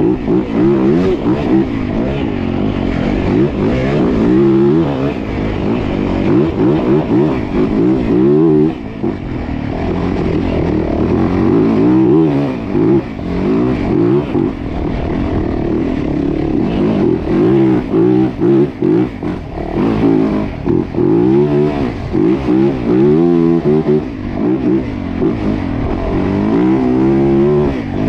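Dirt bike engine being ridden hard, its pitch climbing and dropping over and over as the throttle opens and closes and gears change.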